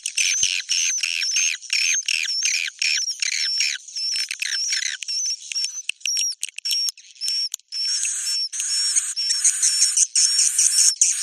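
Recorded swiftlet roosting call ('suara inap walet'), the lure sound played in swiftlet houses: a fast, unbroken run of short high chirps and buzzy twitters, thickening into denser chatter over the last few seconds.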